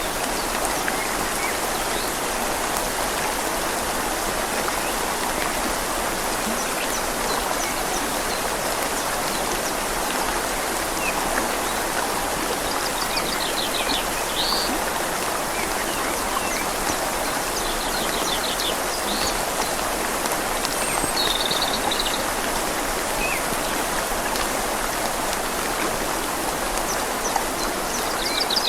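Steady rush of a flowing river mixed with rain falling on leaves. A small bird chirps in short trills a few times midway.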